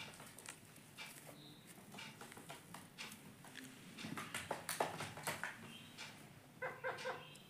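Indian ringneck parakeet tapping and clicking against its mirror, the taps coming thickest in the middle, with a few brief high whistles and a quick run of short chirps near the end.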